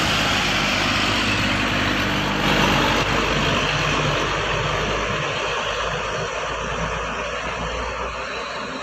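Heavy truck's diesel engine running with road noise, its low engine tone fading out about three seconds in and the overall sound slowly dying away.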